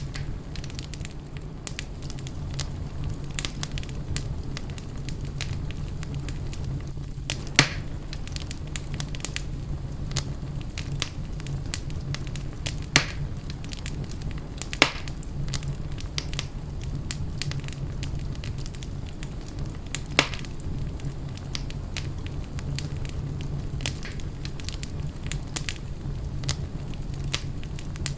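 Wood fire burning in a fireplace, crackling continuously over a steady low rumble, with four louder sharp pops spread through the middle of the stretch.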